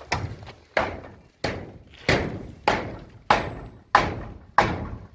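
Steady, rhythmic pounding by hand on a building site: about eight heavy blows, one every two-thirds of a second, each ringing out briefly before the next.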